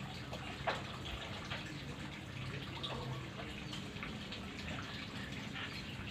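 Irregular drips and small splashes of water over a steady low hum, with one sharper tick about a second in.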